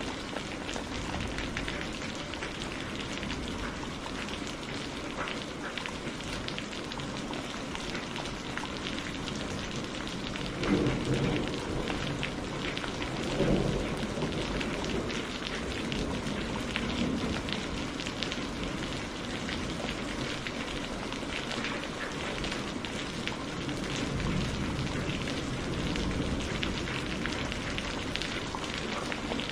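Steady heavy rain falling on a surface, with fine drop patter throughout. Low thunder rumbles about a third of the way in, two swells a few seconds apart, then a softer rumble later on.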